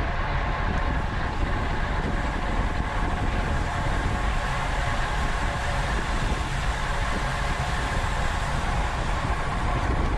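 Steady rush of wind and road noise from riding a racing bicycle at speed, on a camera mounted on the bike or rider.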